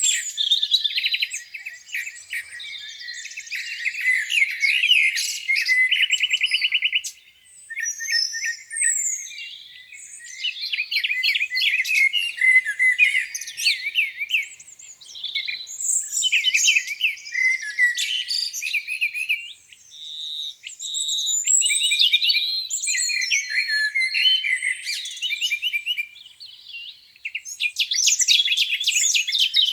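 Several songbirds singing over one another in a spring morning chorus: a busy mix of chirps, warbles and fast trills, with a rapid, even trill about six seconds in.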